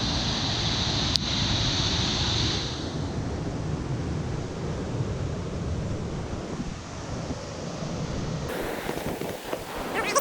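Steady rush of whitewater from a river rapid mixed with wind on the microphone, with a single sharp click about a second in.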